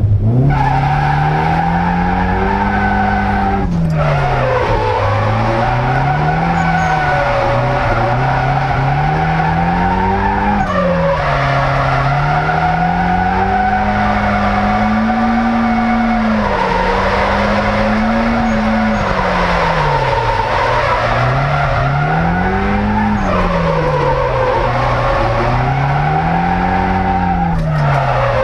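Nissan 200SX S14's engine revving hard up and down over and over while the tyres squeal continuously as the car is drifted through a gymkhana course, heard from inside the cabin. The revs cut briefly a few times, about 4 and 11 seconds in and near the end.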